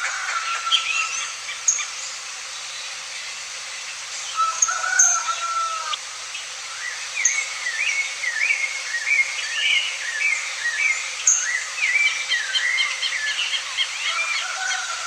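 Several birds chirping and calling, with many short rising and falling chirps overlapping over a steady background hiss.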